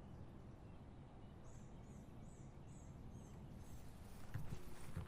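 Quiet outdoor background with a bird chirping a quick series of about six short, high calls, roughly two a second. Near the end, soft rustling and a couple of faint knocks.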